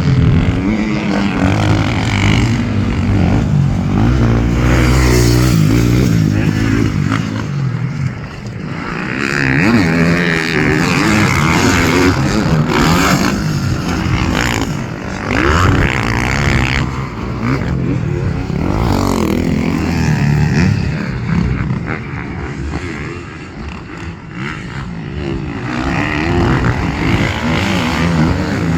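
Dirt bike engine revving up and easing off again and again as it is ridden around a motocross track, the pitch rising and falling with the throttle and the sound dipping twice, about eight seconds in and near the end.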